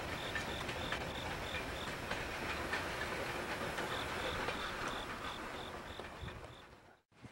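A passenger train approaching from a distance, a steady low rumble with faint clicks of wheels over the rail joints. An insect chirps evenly about four times a second above it. The sound fades out shortly before the end.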